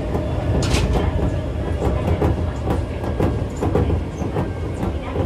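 Keisei 3400 series electric train running at speed, heard inside the car: steady running rumble with a rapid series of wheel clicks over rail joints, and a brief sharp high-pitched noise just under a second in.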